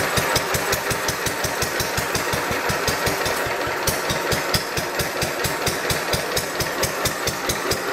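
1936 Lister 2 horsepower single-cylinder stationary engine running steadily, its exhaust beating in an even, rapid rhythm.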